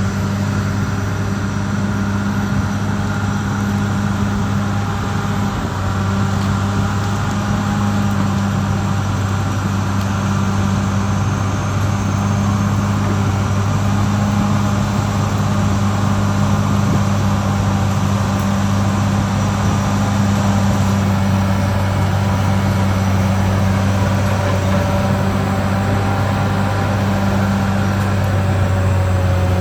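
Caterpillar D6R XL bulldozer's diesel engine running steadily at an even pitch.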